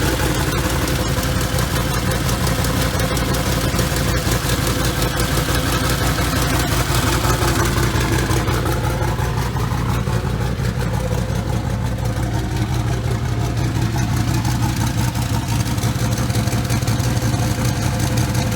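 Truck engine, newly fitted with a single turbo and a blow-through carburettor, idling steadily with an even pulse.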